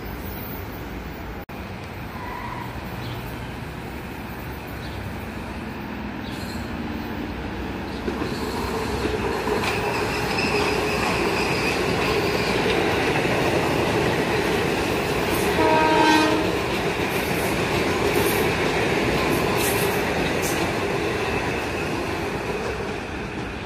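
Metro-North electric commuter train passing, its wheels and motors growing louder about a third of the way in. There is a short horn blast about two-thirds of the way through.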